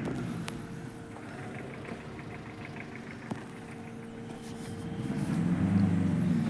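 Escort Powertrac Euro 55 tractor's diesel engine idling steadily. Near the end a louder, lower pitched engine sound swells up.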